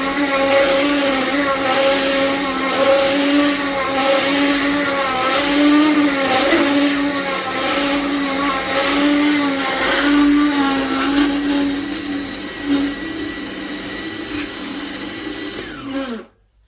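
Electric motor of an AMZCHEF cold-press slow juicer running with a steady whine that pulses regularly, a little over a second apart. It stops abruptly near the end.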